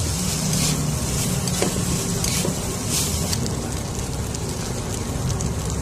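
Dried anchovies frying in hot oil, sizzling steadily with brief louder surges of crackle, over a low steady hum.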